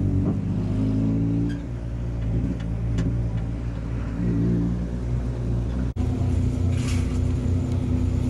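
Race car engine heard from inside the cockpit under racing load, its pitch easing off and then climbing again as the driver lifts and gets back on the throttle. The sound cuts out for an instant about six seconds in.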